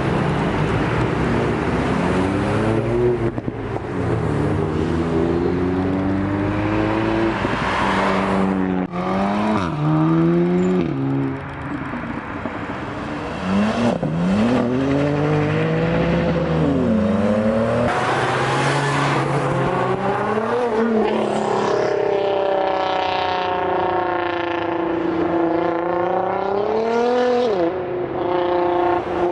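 Cars and motorcycles accelerating hard past in turn, engine pitch climbing through the revs and dropping sharply at each gear change. Near the end one engine holds a steadier pitch before a last rise and drop.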